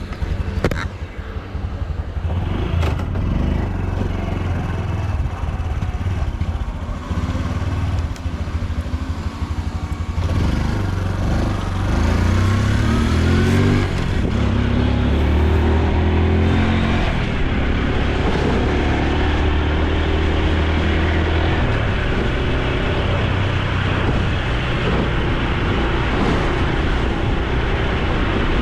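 Honda Super Cub C125's single-cylinder four-stroke engine and exhaust while riding, recorded on the bike. The pitch climbs repeatedly as the bike accelerates through the gears in the first half, then settles into a steady drone at cruising speed.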